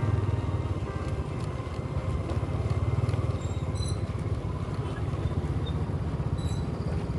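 Motorcycle engine running steadily while riding, a low pulsing drone. Two brief high chirps come about four and six and a half seconds in.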